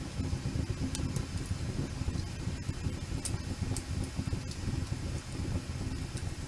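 Wood campfire burning: a steady low rumble with a few sharp crackles and pops of burning wood.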